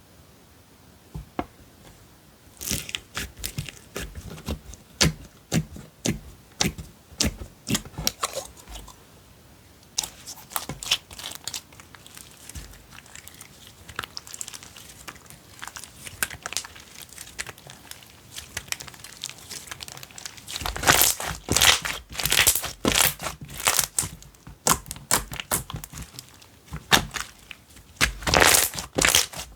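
Slime being squished and poked by hand, giving a run of sharp sticky clicks and crackles that starts a couple of seconds in and comes thickest about two-thirds through and again near the end.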